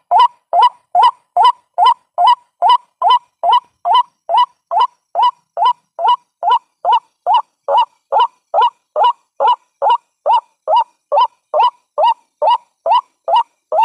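White-breasted waterhen calling, a steady unbroken run of short, identical notes at about two and a half per second. This is the call played as a lure to draw waterhens in for trapping.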